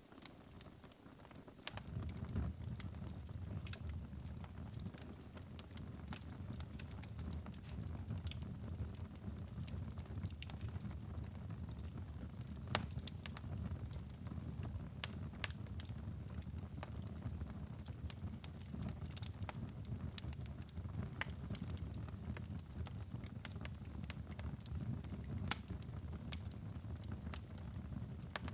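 Wood fire burning in a fireplace: a steady low rumble of flames with scattered sharp crackles and pops. The rumble is thinner for about the first two seconds.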